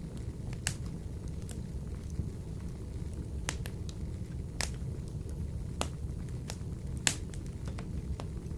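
Wood fire burning in a wood-burning stove: irregular sharp crackles and pops, the loudest about seven seconds in, over a low steady rumble.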